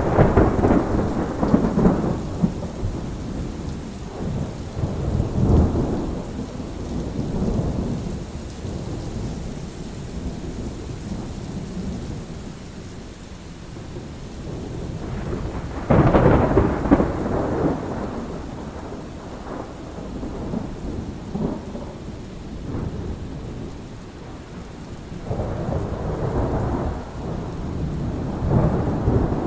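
Thunderstorm: steady rain falling, with rolls of thunder rumbling at the start, a few seconds in, loudest about sixteen seconds in, and again near the end.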